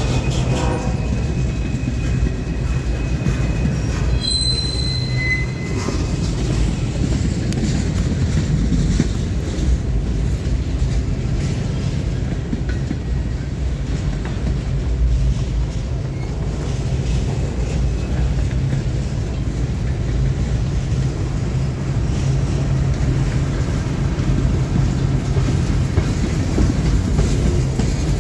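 CSX train rolling on the rails, its diesel locomotive engine running under a steady rumble of wheels. A few short, high wheel squeals come about four to five seconds in, and the tail of a horn blast fades at the very start.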